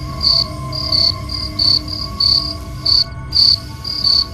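Crickets chirping in short, high chirps about three times a second, over a low steady hum.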